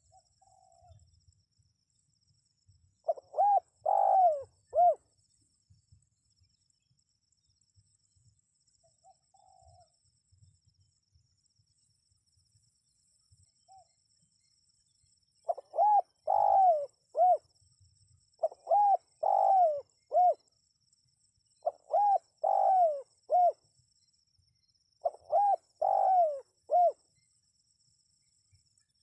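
Spotted dove (tekukur) cooing: five phrases of several notes each, one about three seconds in, then after a long pause four more every three seconds or so, with faint single coos in between.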